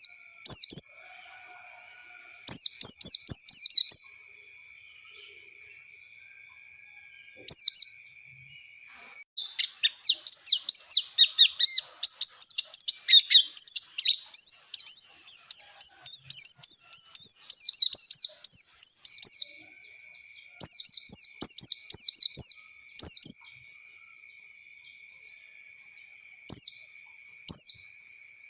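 White-eye (pleci) song: quick, high twittering phrases in short bursts, then a long unbroken run of song lasting about ten seconds, then more bursts near the end.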